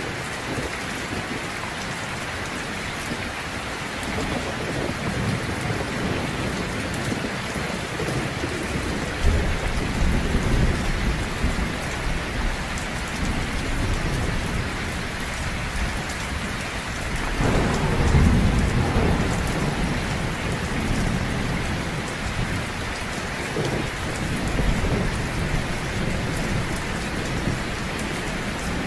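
Heavy rain falling steadily, with several low rolls of thunder, the loudest a little past halfway.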